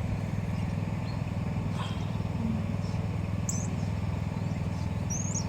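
Steady low hum of an idling car engine, with a couple of brief high chirps from small birds.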